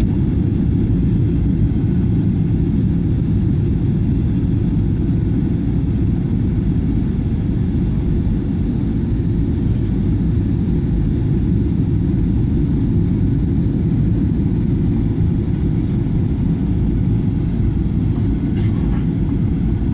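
Boeing 737-900ER jet on its landing approach: a steady, even low roar of engine and airflow noise that holds the same level throughout.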